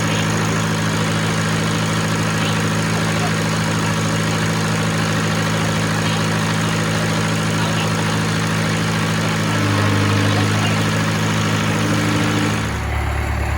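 International Harvester 574 tractor engine running steadily. It gets a little louder about two-thirds of the way through, then drops to a lower, deeper note near the end.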